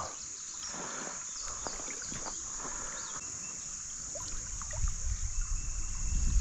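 Steady high-pitched insect trilling, with scattered faint clicks and a low rumble building near the end.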